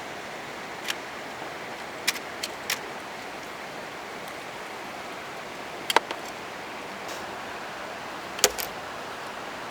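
Steady rush of a flooded creek's flowing water, with scattered sharp clicks and knocks over it; the loudest come about six and eight and a half seconds in.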